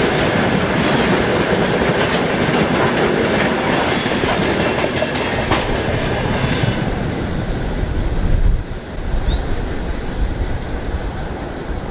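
Freight train wagons rolling past, their wheels clattering over rail joints. In the second half the clatter thins out and grows quieter.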